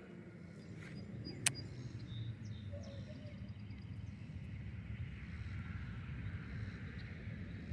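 Outdoor ambience: a steady low rumbling noise, with a single sharp click about a second and a half in and a few faint high bird chirps a little later.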